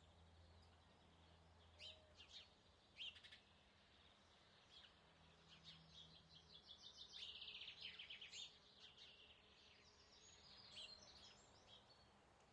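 Faint birdsong against near-silence: a few short scattered chirps, then a rapid trill of quick repeated notes about seven seconds in lasting around a second and a half, and a few more chirps near the end.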